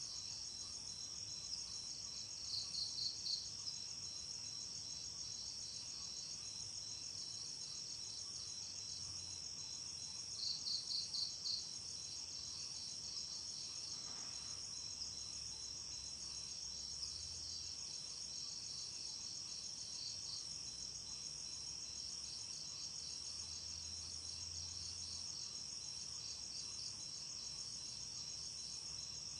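Night crickets trilling steadily in a high, shrill chorus. Twice a louder short run of about five quick chirps stands out, a few seconds in and again about eleven seconds in.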